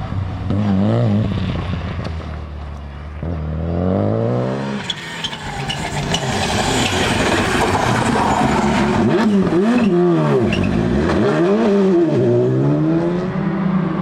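Rally car engine driven hard: the revs climb steeply, then rise and drop sharply several times in quick succession. A loud rushing noise swells in the middle as the car comes close.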